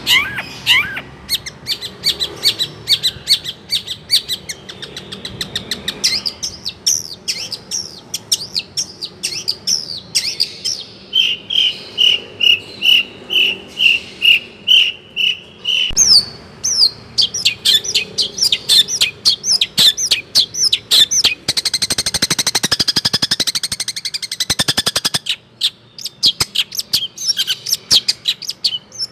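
Long-tailed shrike (cendet) singing a rapid, ever-changing song packed with mimicked calls of other birds. A run of evenly repeated whistled notes comes about a third of the way in, and a harsh rapid chatter comes later.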